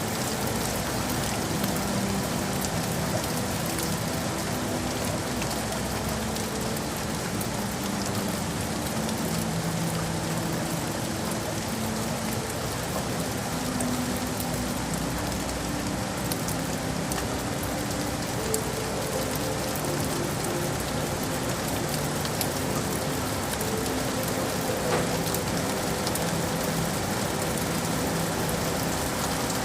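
Steady rain falling on hard surfaces, an even hiss with fine drop ticks. Faint held low tones sit underneath it.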